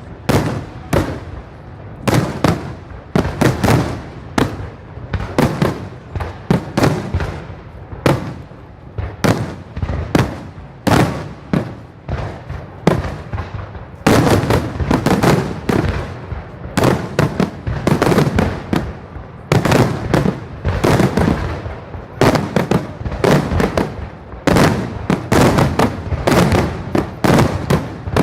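Aerial fireworks display: shells bursting in rapid succession, a dense barrage of bangs several a second with hardly a gap, growing louder about halfway through.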